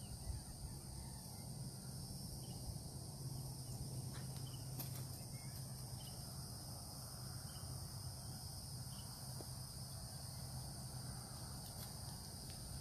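Steady high-pitched insect chorus, with a few faint short bird chirps now and then over a low steady rumble.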